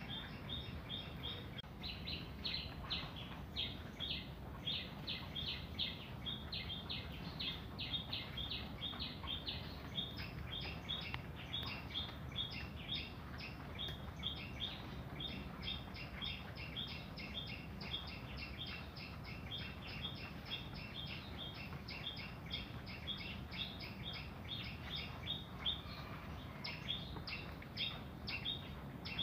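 Birds chirping steadily: an unbroken string of short high chirps, about three a second, over a low steady hum.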